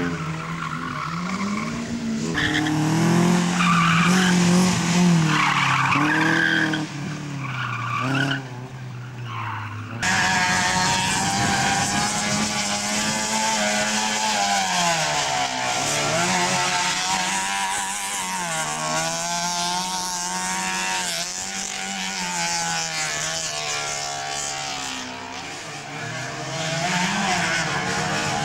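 Slalom car engine revving hard, its pitch rising and falling repeatedly as the car accelerates and brakes between cones, with some tyre squeal. About ten seconds in the sound breaks off abruptly and another car's engine takes over, revving up and down in the same way.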